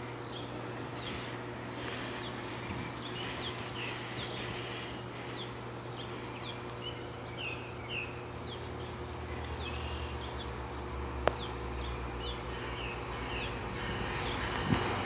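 Birds chirping in many short, falling notes over a low steady hum. The rumble of an approaching GO Transit commuter train grows louder toward the end, with one sharp click about eleven seconds in.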